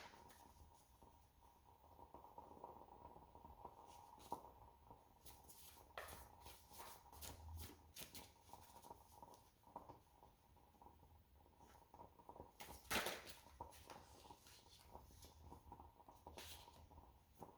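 Near silence with faint scattered clicks and soft rustles of tarot cards being handled and laid down, with one louder, brief rustle late on.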